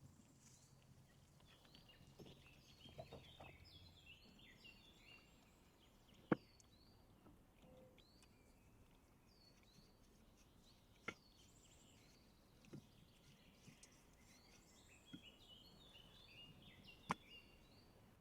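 Faint birdsong: runs of quick, high chirps, twice, with a few sharp clicks in between.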